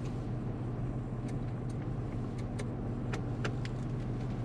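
A four-wheel-drive vehicle's engine and drivetrain running steadily as it drives slowly, heard as a low hum inside the cabin. A few faint ticks sound through the middle.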